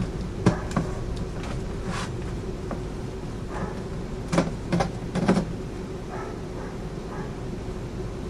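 Handling of a DeWalt cordless battery and reciprocating saw: several scattered hard plastic clicks and knocks over a steady low hum.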